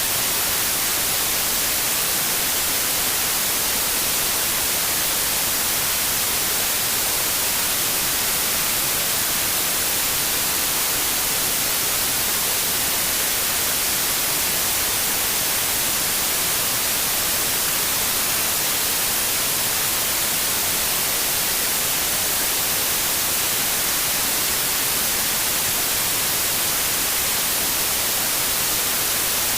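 Steady white noise: an even, unchanging hiss across the whole range of pitch, strongest in the highs.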